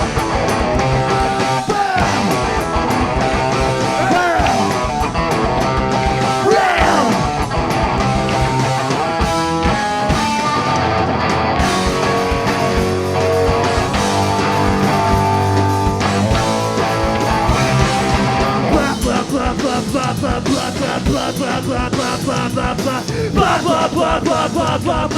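A punk rock band playing live, loud, with distorted electric guitars and drums in an instrumental stretch of the song; the texture changes about three-quarters of the way through.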